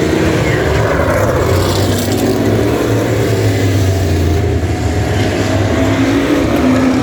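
Vintage stock car engines running at racing speed, the engine note rising and falling as the cars go around the track.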